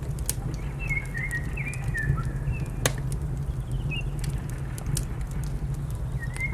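Wood fire crackling over a steady low rumble, with scattered sharp pops, the loudest about three seconds in, while small birds give short chirping calls.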